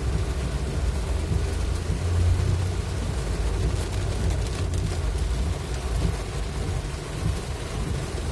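Vehicle driving through heavy rain: a steady low rumble of engine and road noise with the hiss of rain and wet tyres over it.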